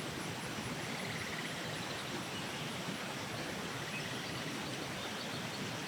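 Steady outdoor ambience: an even background hiss with a faint rapid insect trill about a second in and a few faint high chirps.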